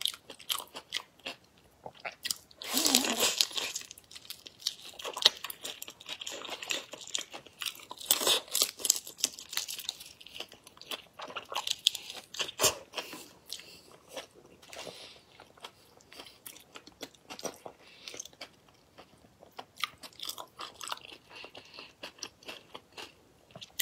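Close-miked biting and chewing of whole shell-on prawns in a soy-and-chili marinade. It is a run of sharp crunching clicks from the shells, heaviest about three, eight and eleven seconds in.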